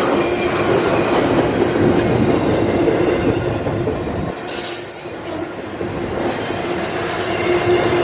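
CSX intermodal freight train rolling past, its wheels on the rail making a steady rumble with a steady tone held underneath. A brief high-pitched wheel squeal cuts in about halfway through.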